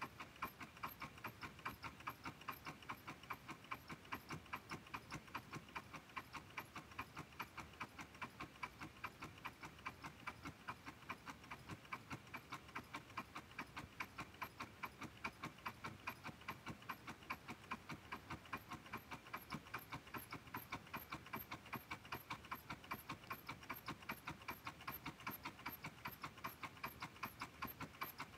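Homemade Stirling engine running, clicking in a fast, steady, even rhythm as it turns.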